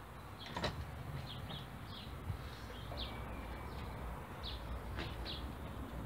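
Small birds chirping, short high calls repeated many times, over a low steady background rumble, with a sharp click near the start and another about five seconds in.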